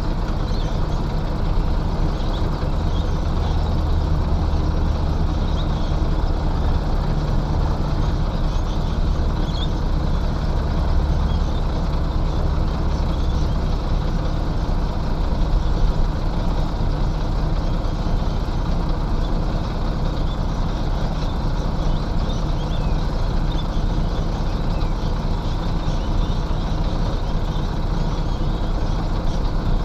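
Heavy diesel engine of earthmoving machinery running steadily, with a deeper low rumble through much of the first half.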